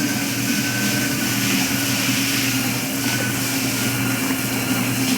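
Electrolux top-load washing machine and Arno Lavette Maxx tanquinho agitator washer running together mid-wash: a steady motor hum with a faint high whine.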